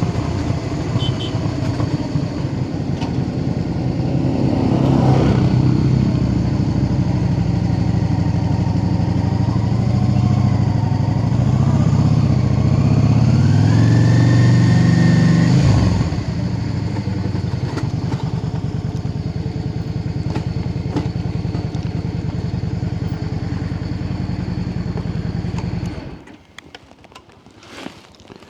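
Motorcycle engine running as the bike is brought in, with a short rise and fall of revs, then idling steadily before it is switched off suddenly about 26 seconds in. A few clicks follow.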